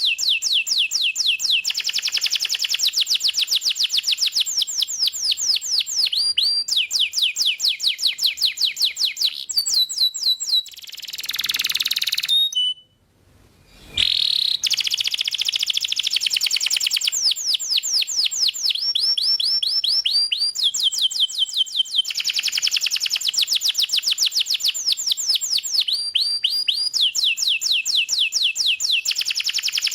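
Domestic canary singing long rapid trills of fast repeated high notes, switching to a new trill every second or two, with a brief break a little before the middle.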